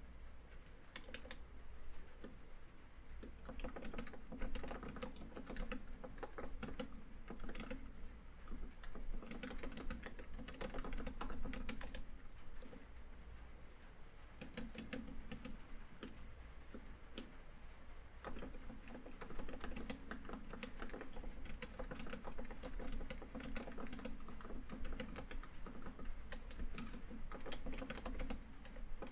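Laptop keyboard typing in quick, uneven bursts of key clicks with short pauses between runs.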